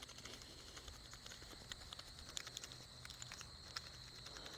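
Quiet outdoor background: a faint, steady high-pitched whine with scattered faint ticks and small clicks.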